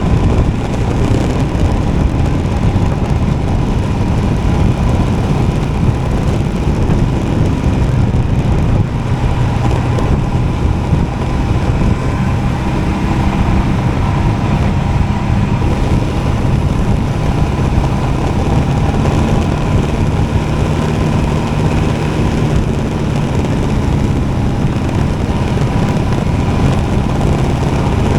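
Royal Enfield Himalayan motorcycle's single-cylinder engine running at a steady road pace, a steady drone over a dense low rumble.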